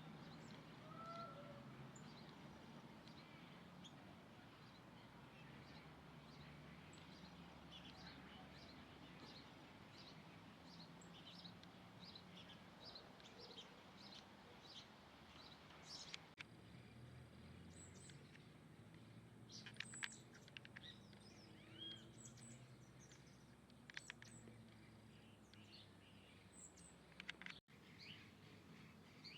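Small birds chirping faintly, many short high chirps in quick succession over a steady low background hum.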